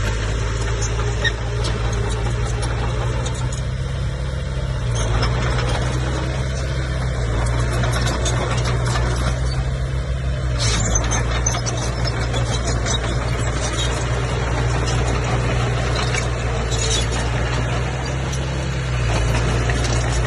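Komatsu bulldozer's diesel engine running steadily under load, its note shifting a few times, with scattered high squeaks and clinks over it.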